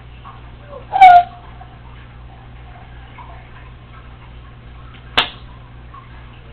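Congo African grey parrot giving one short, loud call about a second in, then a single sharp click a few seconds later.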